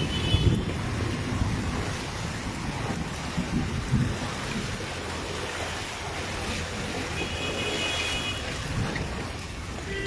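Floodwater rushing in a strong current, a steady wash of noise, with wind buffeting the microphone.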